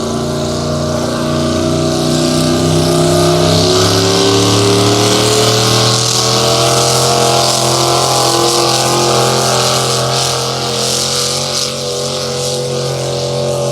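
Pulling vehicle's engine running at high revs under load, loud and steady, its pitch drifting slowly up and down, over a wide hiss.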